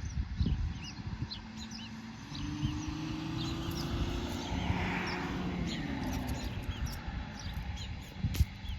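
Small birds chirping: short, high, repeated chirps scattered throughout, over a low rumble, with a low steady hum from about two seconds in to about six seconds.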